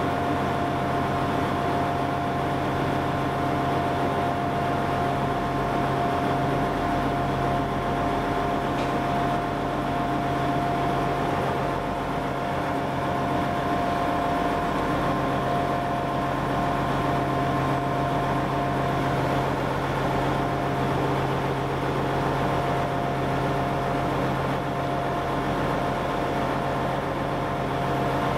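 Steady train hum with a constant high whine, holding the same level throughout.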